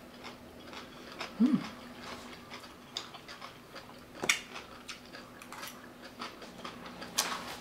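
Close-up chewing of raw cabbage-and-carrot coleslaw, with many small crunches, a short hummed "mm" about a second and a half in, and a few sharp clicks of a metal fork on the plate as more is scooped up.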